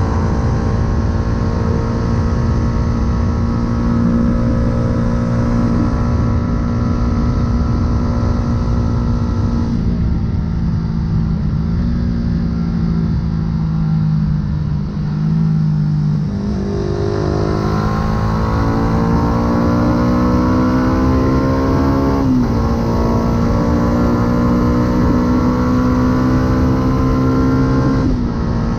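Yamaha R125's single-cylinder four-stroke engine through a full aftermarket exhaust, ridden at a steady pace, then eased off for several seconds. It then pulls with rising revs, drops sharply in pitch at an upshift about 22 seconds in, and climbs again until another shift near the end.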